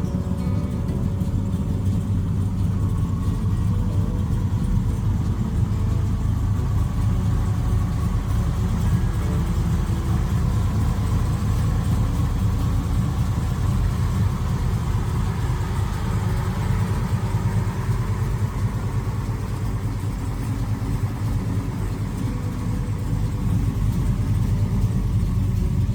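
Car engine running steadily at idle with a deep exhaust rumble.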